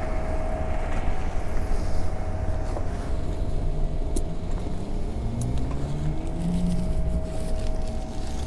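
Motor vehicle engine running close by, its note rising as it accelerates about halfway through, over a steady hum and a low rumble.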